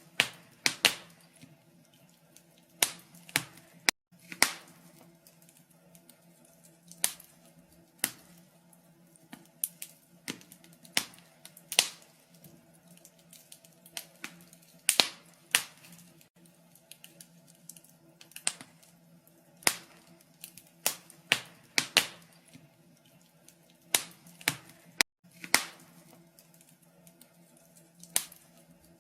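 Wood fire crackling in a fireplace: irregular sharp pops and snaps, sometimes in quick clusters, over a faint steady hum.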